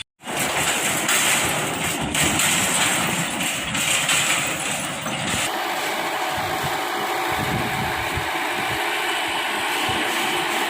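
Tractor engine running; about five seconds in the sound eases and becomes steadier.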